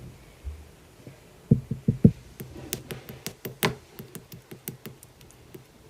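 A run of knocks and taps: four dull thumps about a second and a half in, then a quicker string of sharp clicks, about four a second, that fades out near the end.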